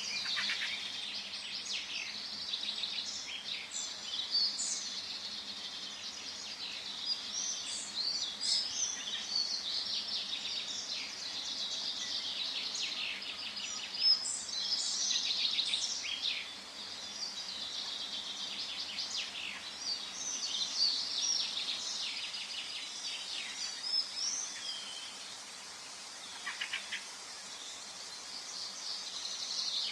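Forest ambience: many songbirds chirping and trilling in overlapping bursts over a faint steady hiss.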